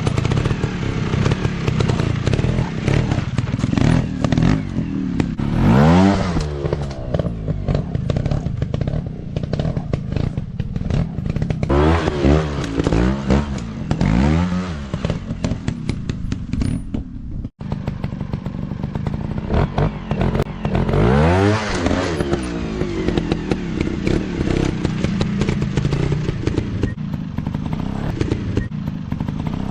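Dirt bike engine running and revving repeatedly, its pitch rising and falling in several throttle bursts, with clattering throughout and a momentary dropout about two-thirds of the way in.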